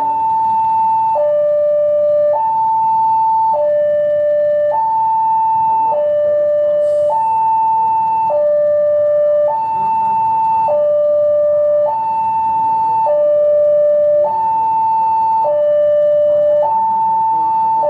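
Railway level-crossing warning alarm sounding a steady two-tone signal, high and low tones alternating about every second, which warns that a train is approaching. There is a brief hiss about seven seconds in.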